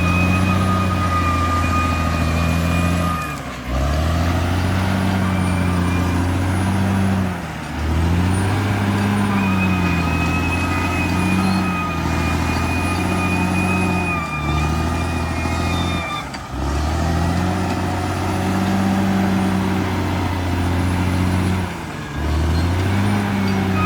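Bulldozer's diesel engine running hard, with a steady high whine over its low drone. Its pitch sags and recovers several times as the load comes on and eases off.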